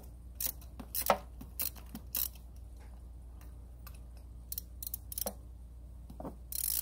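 Ratchet wrench on a spark plug socket clicking in short, scattered spells as a spark plug is worked loose from the engine, with a few sharper metal taps among them.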